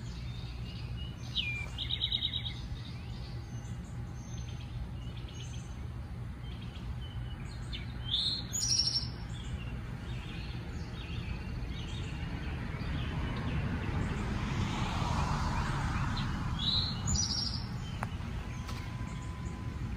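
Songbirds chirping outdoors: short bursts of quick, high repeated notes about two seconds in, again around eight to nine seconds, and near the end, over a steady low outdoor background.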